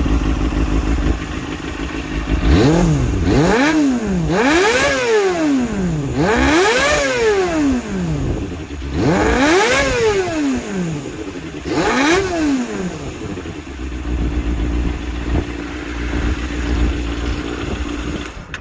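Kawasaki Balius II's 250 cc inline-four breathing through a BEET NASERT-R full-titanium exhaust, free-revved at a standstill: it idles, is blipped sharply five times, each rev rising and falling back quickly, then settles back to idle.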